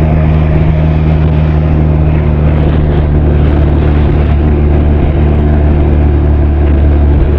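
Benelli TRK 502's parallel-twin engine and exhaust running at a steady cruising speed in third gear, holding an even pitch throughout.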